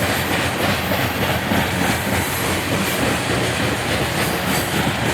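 Loaded coal train of steel gondola cars rolling past, a steady rumble of wheels on the rails with a fast clicking running through it.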